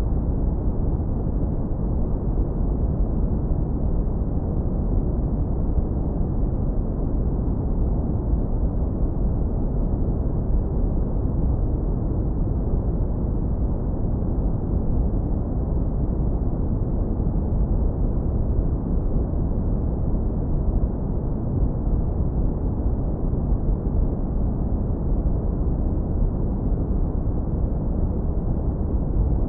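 Synthetic brown noise, heavily low-pass filtered to a deep, warm rumble with almost nothing in the highs, steady and unchanging.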